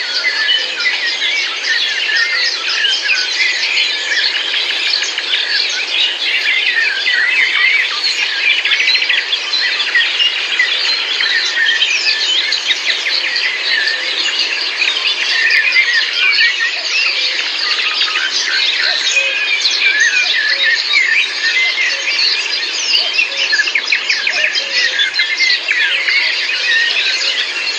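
Many birds singing at once: a dense, continuous chorus of overlapping short chirps and whistles.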